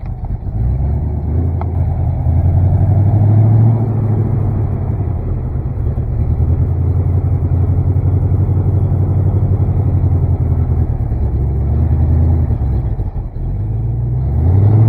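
Chevrolet C50 dump truck's engine running and being revved, its pitch rising and falling. It dips briefly near the end, then revs up again.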